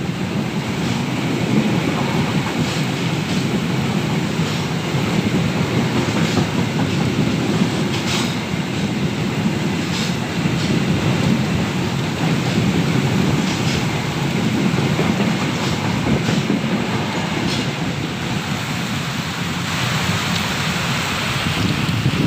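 KA Taksaka passenger train running past in heavy rain: a steady rumble of the carriages with irregular clacks of the wheels over rail joints. About twenty seconds in, the hiss of the rain comes up as the rumble eases.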